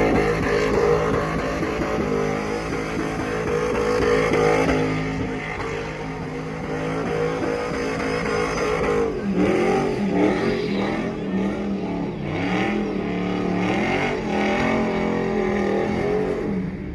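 Pickup truck engine held at high revs in a burnout, with the spinning tyres giving a steady noise. From about nine seconds in, the revs rise and fall over and over.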